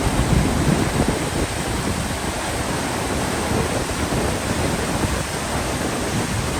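Lower Yosemite Fall running at heavy snowmelt flow: a steady, even rush of falling water crashing at its base.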